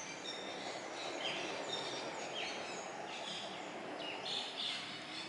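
Several birds chirping in short, repeated calls, some sliding down in pitch, over steady background noise.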